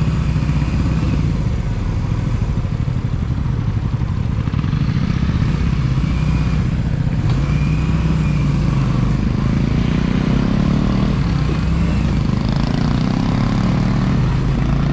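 Motorcycle engine running at low road speed, with its pitch rising in the second half as the bike accelerates.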